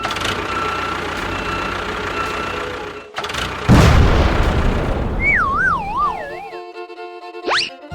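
Edited cartoon-style sound effects: a steady noisy whir, then a loud crash a little under four seconds in. After that comes a wobbling whistle that slides down in pitch, and a quick rising whoosh near the end.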